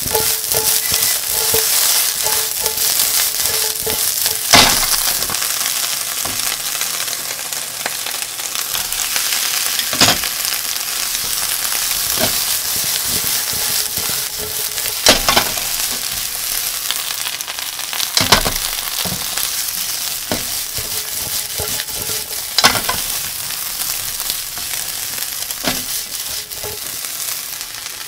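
Okra and cubes of deep-fried tofu sizzling steadily in a nonstick frying pan as they are stir-fried with a spatula. The spatula knocks sharply against the pan about six times.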